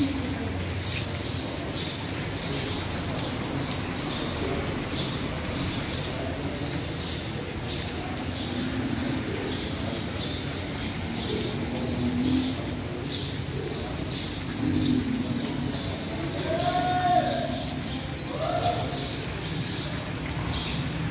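Steady rain falling on tarpaulin market roofs and wet cobblestones, with a small bird chirping over and over about twice a second. A few louder, longer calls come near the end.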